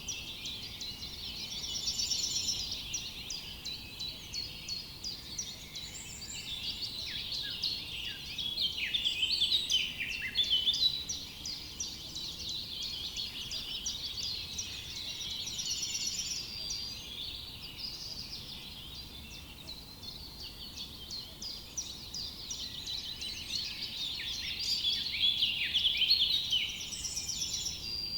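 Dense chorus of many small songbirds chirping and trilling all at once. It swells louder about nine seconds in and again near the end.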